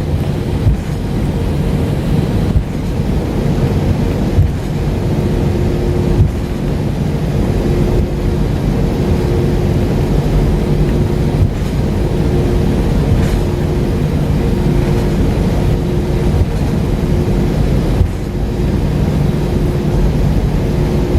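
Jet airliner cabin noise: engines and airflow heard from inside the cabin, a steady rush with a low hum, broken by a few soft knocks.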